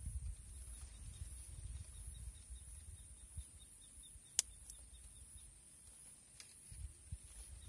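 Outdoor ambience of wind rumbling on the microphone, with a faint steady high insect buzz and a quick, faint ticking in the first half. A single sharp click about four seconds in is the loudest sound.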